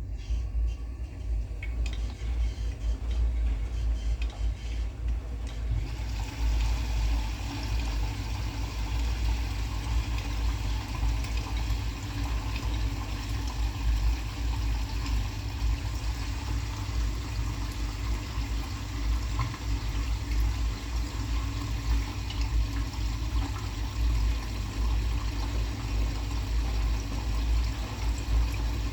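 Washing machine taking in water for its wash cycle: a steady rush of water over a low hum, the rush growing louder about six seconds in.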